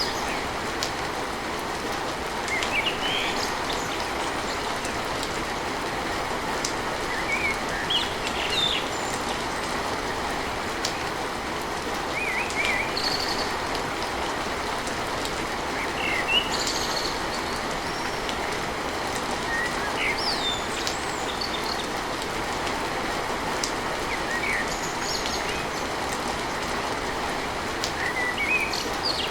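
Steady rain drumming on a tin roof, with small birds chirping in short calls every few seconds.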